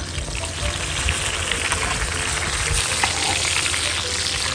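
Chapli kababs shallow-frying in bubbling fat on a large flat pan over a wood fire: a steady, dense sizzle and crackle of hot oil.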